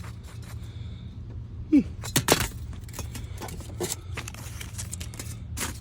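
Loose objects being rummaged through and handled: scattered clicks and knocks, loudest in a cluster of sharp knocks about two seconds in, just after a brief falling squeak, over a steady low hum.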